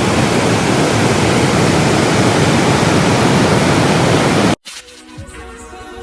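Steady, loud rush of a waterfall, cut off abruptly about four and a half seconds in. Quieter background music with deep, falling-pitch bass drum hits follows.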